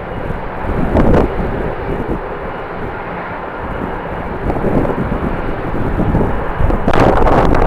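Jet airliner engines giving a steady, loud rush of noise. Gusts of strong wind buffet the microphone, growing louder near the end.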